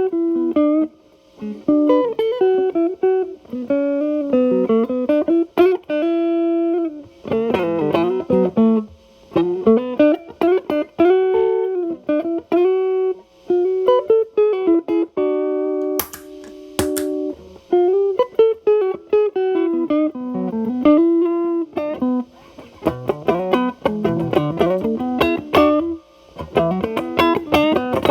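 Electric guitar, a Telecaster through an MI Audio Crunch Box distortion pedal into a Marshall Valvestate amp's clean channel, playing bluesy single-note lead lines with string bends, a few held notes and chord stabs. The drive is cleaned up to a lighter crunch.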